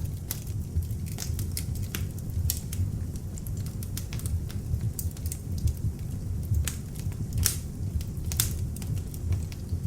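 Beech logs burning in an open fireplace: a steady low rumble of flame with frequent, irregular sharp crackles and pops, two louder pops in the second half.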